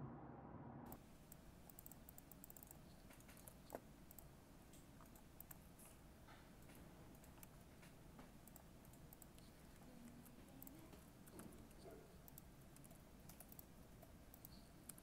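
Faint typing on a computer keyboard: quick, irregular key clicks that begin about a second in.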